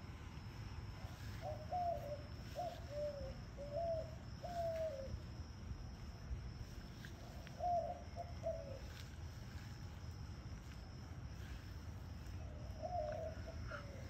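A bird cooing: a run of four short, low coos spaced about a second apart, two more around the middle, and another near the end.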